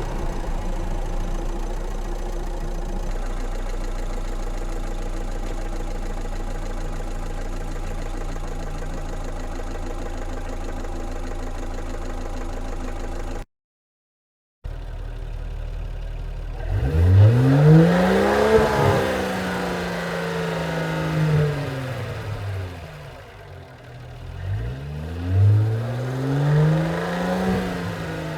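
Car engine idling steadily, then, after a second of silence, a car engine revved twice, each rev rising quickly in pitch and dropping off more slowly.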